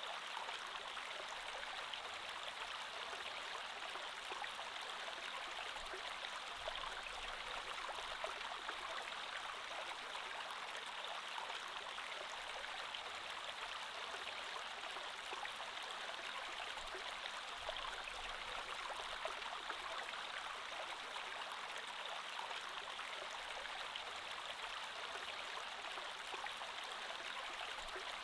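Creek water flowing steadily over stones, a continuous rushing with small gurgles and splashes.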